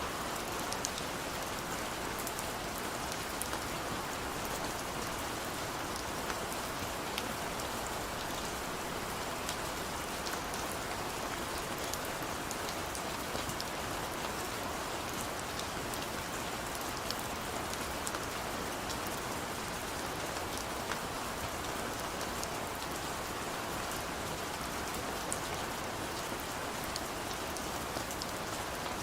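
Heavy rain falling steadily, a dense hiss with many fine drop impacts.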